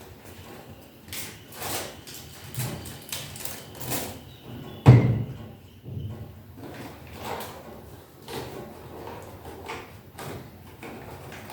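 Kitchen handling sounds: a run of irregular knocks, clatters and scrapes, with one loud sharp knock about five seconds in.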